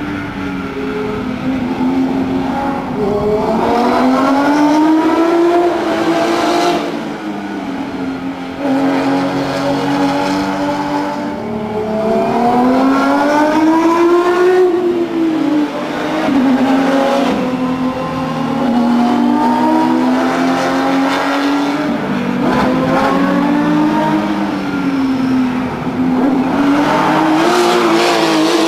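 Porsche 997 GT3 Cup flat-six racing engine at high revs, accelerating hard through the gears: the pitch climbs, falls sharply at each gear change and climbs again, several times over.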